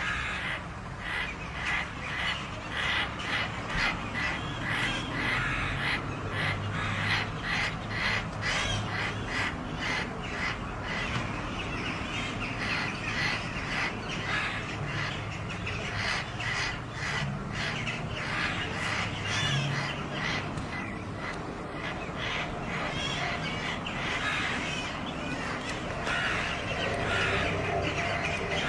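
Birds calling over and over in short calls a few times a second, the calls running together more densely and a little louder near the end.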